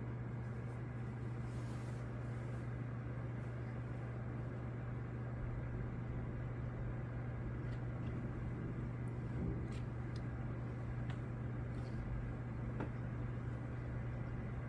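A steady low mechanical hum with a faint hiss, unchanging throughout, with a few faint ticks.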